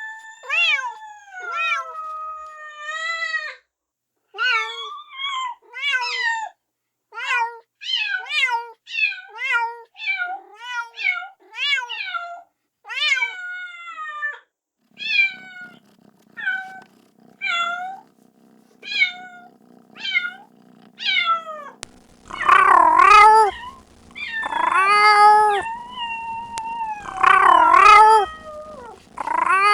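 Kitten meowing over and over in short, high-pitched cries, calling for its mother. About halfway a faint steady hum comes in behind it, and in the last third the meows grow louder and longer.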